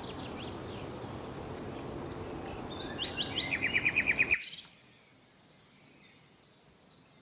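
Songbirds calling and trilling in rapid runs of short notes over a steady background hiss. About four and a half seconds in the hiss and the louder birdsong cut off suddenly, leaving only faint, high bird calls.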